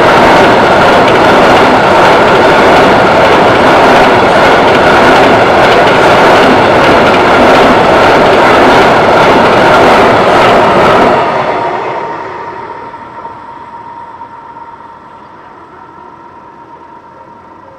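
A freight train of tank-container wagons rolls loudly over a level crossing, its wheels clattering on the rails. About eleven seconds in the last wagon passes and the rail noise dies away, leaving the crossing's warning bell ringing as one steady tone.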